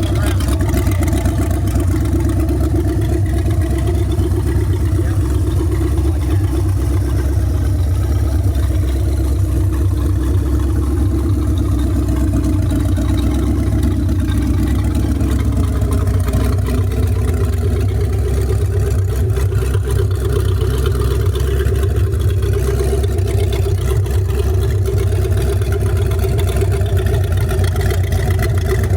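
Marine 5.7-litre Chevrolet small-block V8 running steadily after a keyless start. The tone shifts slightly about halfway through.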